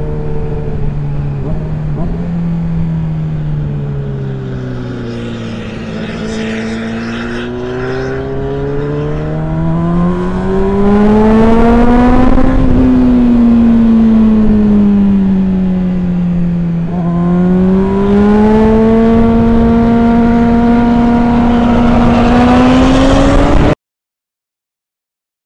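Motorcycle engine under way, its note easing down, then climbing hard to a peak about twelve seconds in. It backs off and climbs steadily again, with wind rush. The sound cuts off abruptly near the end.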